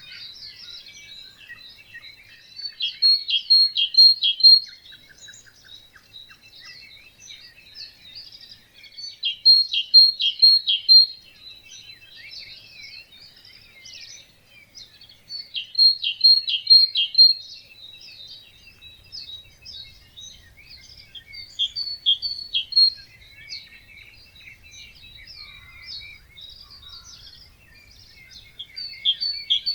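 Dawn chorus of wetland birds singing. One bird repeats a loud, quick phrase of several sharp notes about every six seconds over a steady tangle of other birds' calls and chirps.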